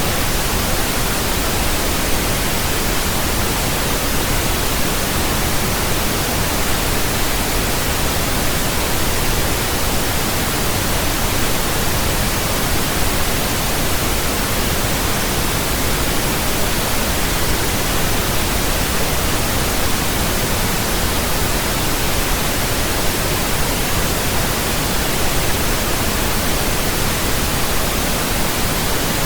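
Steady pink noise: an even, unchanging hiss spread across all pitches, fuller in the bass than white noise.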